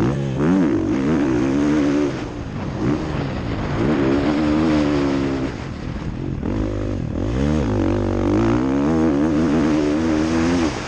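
Motocross bike engine heard from onboard, revving up and dropping back again and again as the throttle is opened and closed.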